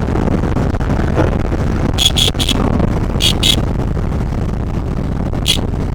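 Motorcycle running on the road, a steady rumble of engine, wind and road noise, with a few short high-pitched sounds cutting through: three quick ones about two seconds in, two more a second later, and one near the end.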